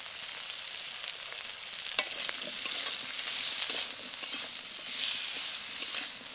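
Drumstick (moringa) stems frying in hot mustard oil in a kadai, sizzling steadily as they are stirred, with a sharp knock about two seconds in.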